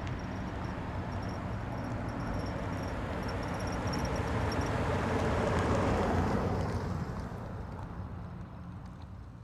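Nature ambience: a deep rushing rumble swells slowly to a peak about six seconds in, then fades away, with high rapid chirping over it during the first half.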